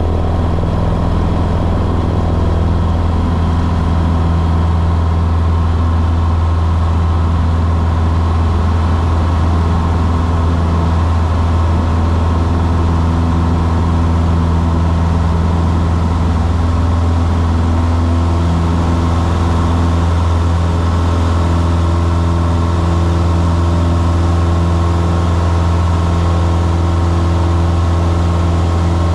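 Small private plane's piston engine and propeller running steadily, a constant low hum heard from inside the cabin.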